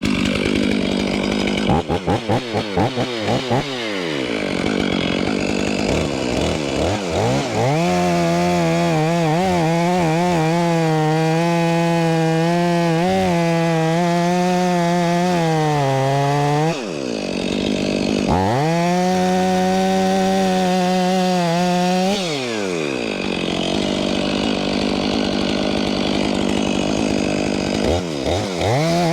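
Stihl chainsaw cutting the buttress off a large white pine log: a few short throttle blips, then about eight seconds at full throttle, a brief drop toward idle, a few more seconds at full throttle, then idling until it revs up again near the end.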